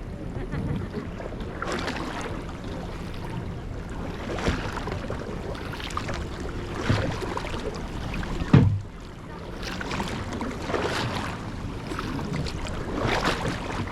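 Kayak paddle strokes swishing and splashing in the water, a surge every second or two, with a single sharp thump a little past halfway.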